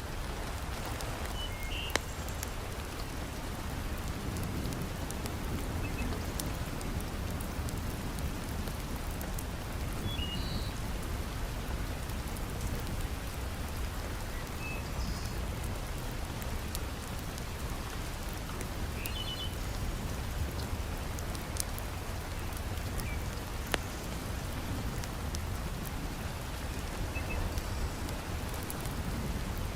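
Heavy rain falling steadily, with scattered sharp pops and crackles from a wood fire burning in a fireplace; two pops stand out, one about two seconds in and one near the end.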